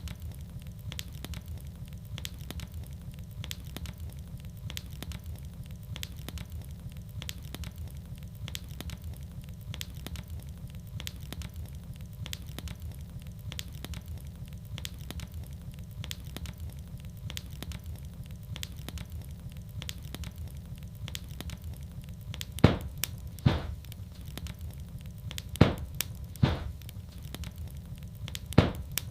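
Wood fire burning in a fireplace: a steady low rumble with a constant scatter of small crackles, and a handful of louder sharp pops near the end.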